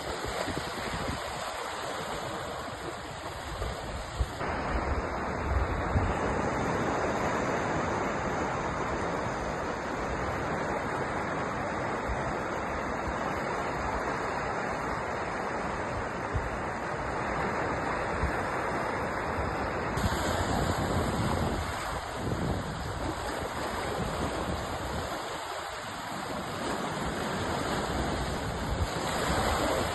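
Sea surf: waves washing and breaking continuously, rising and falling gently in loudness. The character of the noise changes abruptly about four seconds in and again about twenty seconds in.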